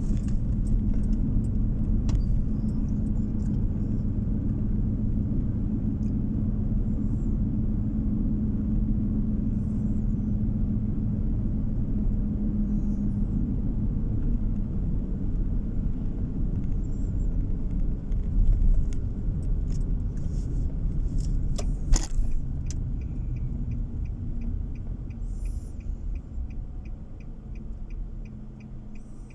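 Steady low road and engine rumble heard from inside a moving car, fading over the last few seconds as the car slows. From about 22 seconds in, a turn-signal indicator ticks evenly, about two to three ticks a second.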